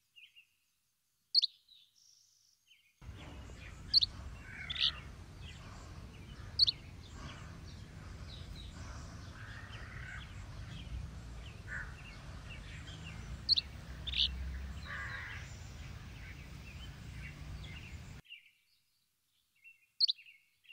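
Birds chirping outdoors: short, sharp high-pitched calls a few seconds apart, over a steady low background hum of open-air ambience that comes in abruptly about three seconds in and cuts off near the end.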